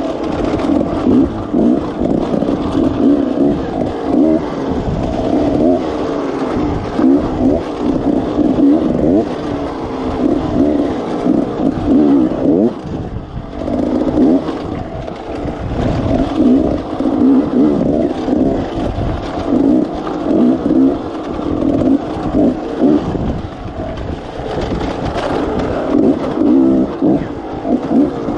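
Enduro motorcycle engine under constant throttle work, revving up and down over and over as the bike is ridden over rough, rocky trail, with a brief easing off the throttle about 13 seconds in.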